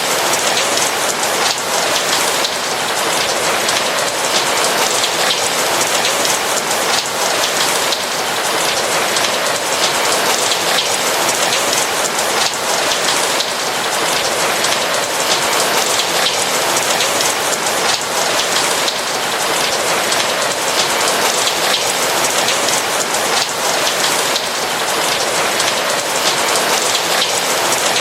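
Steady rain falling: a dense, even patter of raindrops that holds constant throughout.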